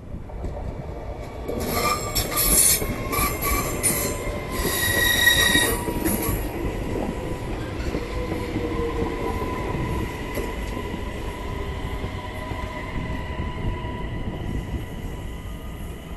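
A passenger train rolling past on the next track. Loud, high-pitched metal squealing starts about one and a half seconds in and peaks over the next five seconds. It then settles into a steady ringing squeal over the rumble of the wheels as the cars go by, fading near the end.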